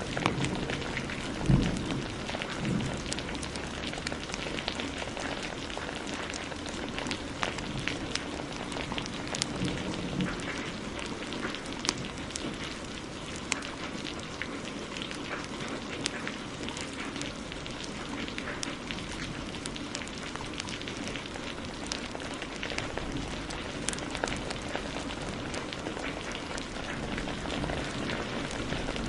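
Steady heavy rain with the crackling of a wood fire, sharp pops and clicks scattered all through. There is a single low thump about a second and a half in.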